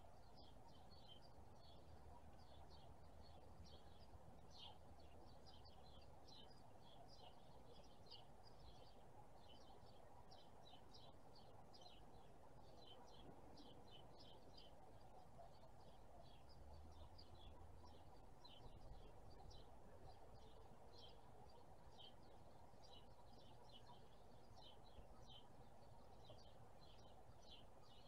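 Faint, continuous chirping of small birds: many short, high chirps each second, over a low background rumble.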